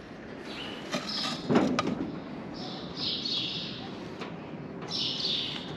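Birds chirping in short bursts every second or two, with a knock and a brief clatter about a second and a half in.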